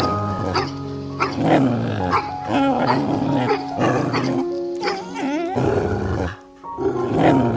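Background music with held notes, over which cats meow repeatedly, in wavering, bending calls.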